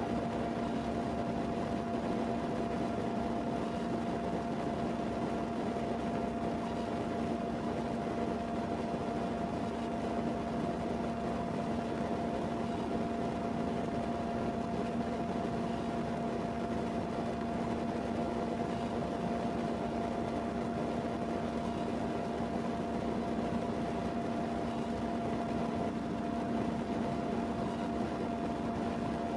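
Steady machine hum with an even hiss and two constant tones, unchanging throughout, starting abruptly.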